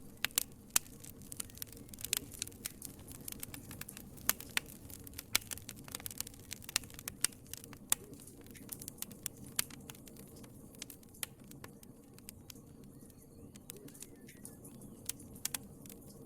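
Wood fire crackling in a fireplace: sharp pops and snaps over a low, steady rustle of burning. The pops come thick and fast through the first half and thin out towards the end.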